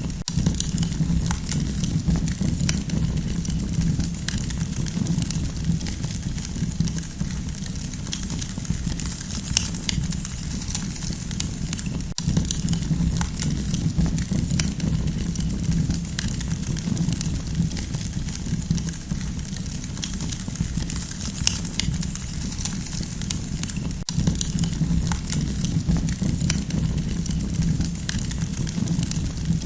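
Campfire burning: a dense, steady crackle of small pops and snaps over a low rumble, broken twice by a very brief dropout about twelve seconds apart.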